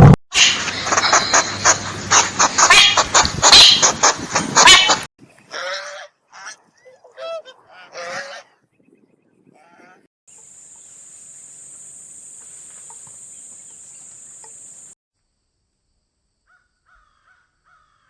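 A run of different animal calls. First comes about five seconds of loud, dense bird calling. A few shorter pitched calls follow. Then a steady high-pitched hiss runs for about five seconds, and faint calls come near the end.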